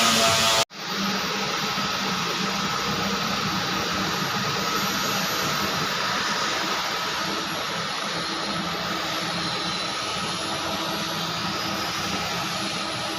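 TIG welding arc on 316L stainless steel: a steady hiss with a faint, wavering high whine. It breaks off abruptly for an instant under a second in.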